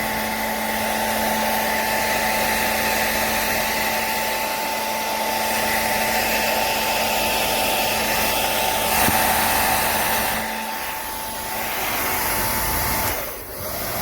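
Remington Thermacare PRO 2300 hair dryer running on its first setting: a steady rush of air with a motor whine and a low hum. The hum stops about ten and a half seconds in, and the sound dips briefly near the end.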